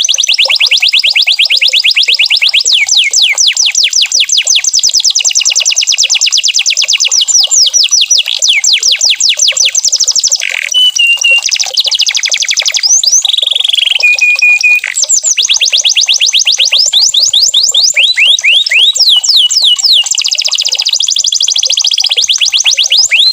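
Domestic canary singing a long, unbroken song of very fast trills: runs of rapid repeated sweeping notes, changing speed from phrase to phrase, with a few short held whistled notes mixed in about halfway through.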